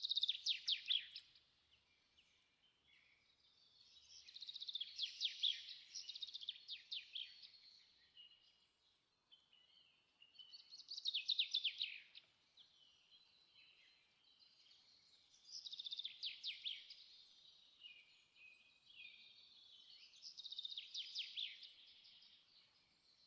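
A songbird singing: five phrases of rapid, high chirping trills, each a second or two long, a few seconds apart.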